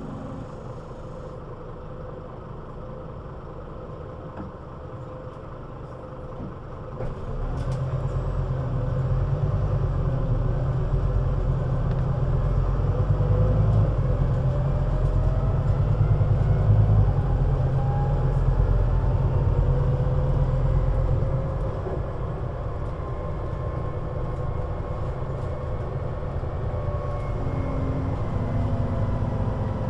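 Scania CN320UA articulated city bus's engine running low at first, then pulling harder about seven seconds in as the bus accelerates, with a deep rumble and a faint rising whine. It eases back to a steadier, quieter run about two-thirds of the way through.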